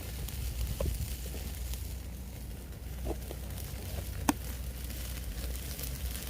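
Wood campfire crackling, with scattered small pops and one sharper pop about four seconds in, over a steady low rumble.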